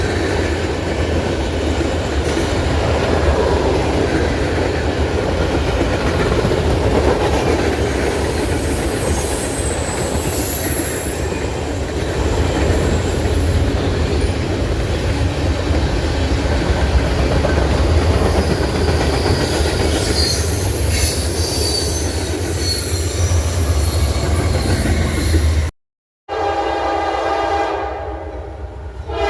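A train rolling past close by, a steady rumble with the clatter of wheels on the rails. After a sudden cut near the end, a locomotive air horn sounds a steady chord of several tones.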